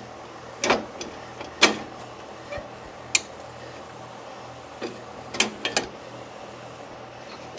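Scattered sharp knocks and clinks of hand tools and parts being worked on a lawn tractor's steering gear assembly, about seven in all with a quick run of three near the end, over a faint steady hum.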